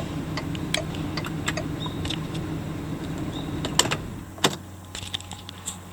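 A 2007 Volkswagen Touareg's 3.6-litre VR6 petrol engine (code BHK) running steadily at idle, with scattered light clicks. The engine sound drops away about four seconds in, leaving a faint hum.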